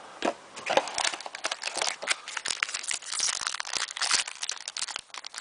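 Hockey card pack wrapper crinkling and trading cards being handled, making a dense run of irregular crackles and snaps.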